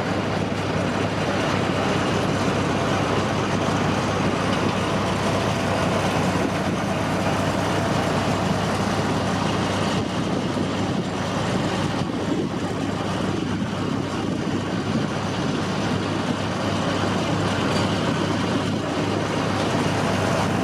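Passenger train running along the track: a steady rumble and rattle of the moving cars with a low hum underneath.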